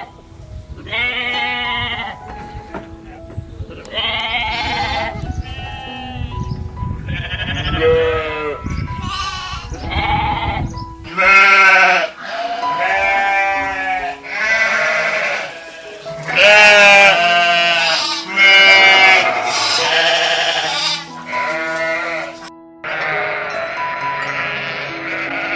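Sheep bleating again and again, about fifteen wavering baas from several sheep of differing pitch, some high and some lower, over steady background music.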